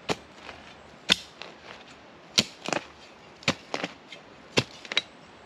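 A digging tool chopping repeatedly into forest ground, cutting out turf and roots for a fire pit: sharp strikes about once a second, some in quick pairs.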